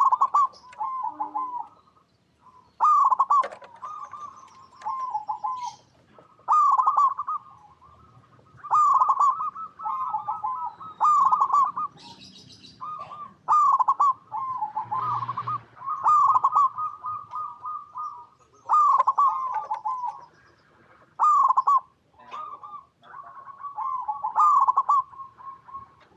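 Zebra doves (perkutut) cooing: short rolling phrases of quick coo notes, repeated every one to two seconds.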